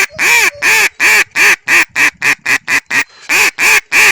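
Mallard duck call blown in an insistent, commanding series of hen quacks: a run of notes that get shorter and faster, then a second run starting after a brief pause. It is a landing call meant to turn back a duck that is flying away.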